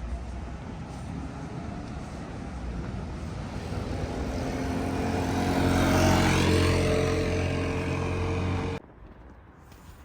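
A motor vehicle passing close by on the street, its engine and tyre noise growing louder to a peak about six seconds in. The sound cuts off abruptly near the end.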